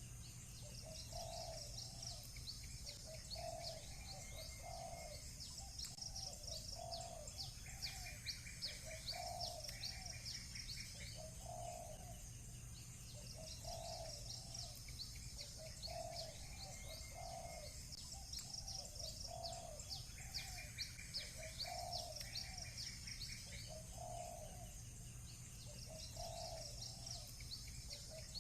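Doves cooing in a steady repeated pattern, about one coo every second and a half, over continuous high-pitched chirping of small birds. Another bird gives short buzzy trills twice. A faint steady low hum runs underneath.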